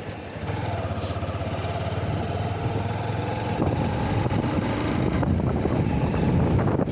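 Honda Shine SP 125's single-cylinder four-stroke engine running as the motorcycle is ridden, growing louder about halfway through.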